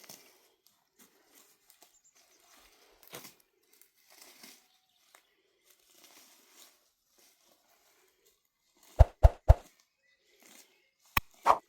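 Faint scattered rustling and crinkling, then three loud knocks in quick succession about nine seconds in and two more sharp knocks near the end.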